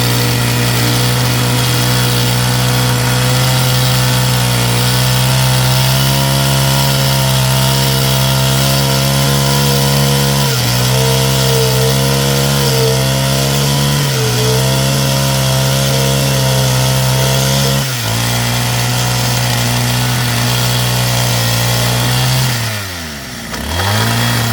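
Power tool motor running at steady speed while working wood, its pitch dipping briefly three times under load. Near the end it winds down sharply in pitch, speeds up again for a moment, then cuts off.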